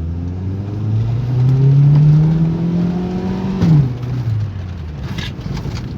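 1996 Toyota Corolla's 1.8 four-cylinder engine heard from inside the car, revving up under hard acceleration and loudest about two seconds in. A little past halfway its pitch drops sharply with a click, and the engine then winds down as the car brakes hard to a stop.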